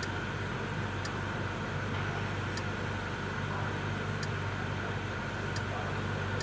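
Steady low hum inside a car cabin with the car running, with a few faint, short clicks spaced about a second or more apart.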